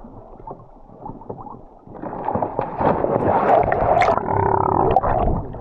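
Water churning and gurgling, loud from about two seconds in, as a diver plunges into the water.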